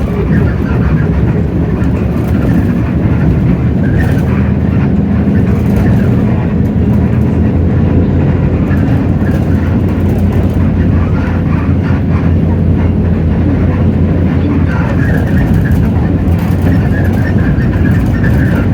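Hino J08E-VN 7.7-litre diesel engine of a city bus running steadily under way, heard from inside the cabin: a loud low drone with road and body noise.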